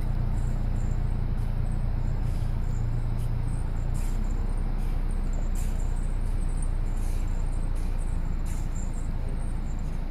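A vehicle engine idling steadily, with faint short high-pitched chirps every second or so.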